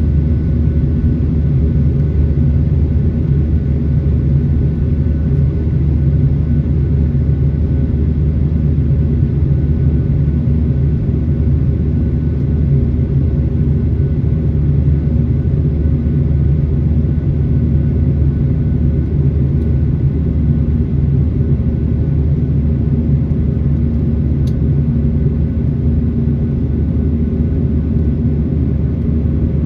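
Cabin noise inside a Boeing 737-800 with its CFM56-7B engines: a steady, deep rumble with a faint constant whine above it, holding level without rising or falling.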